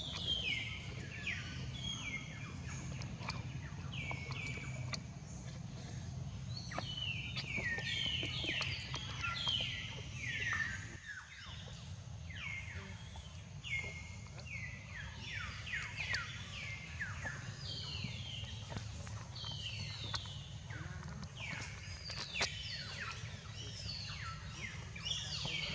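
Birds calling: many short, high chirps that each fall in pitch, overlapping and repeating all through, over a steady low hum.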